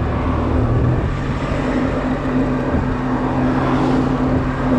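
Honda Silver Wing maxi-scooter's engine running at steady, low revs, heard through the onboard camera's microphone.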